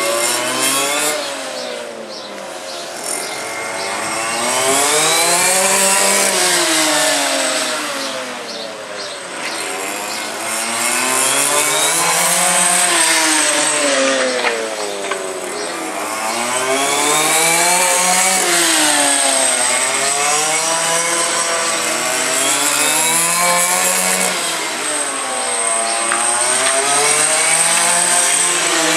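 Small two-stroke petrol engines of 1:5 scale FG radio-controlled race cars, revving up and down as they lap, with two engines' pitches rising and falling across each other. The sound swells and fades every few seconds as the cars come near and go away.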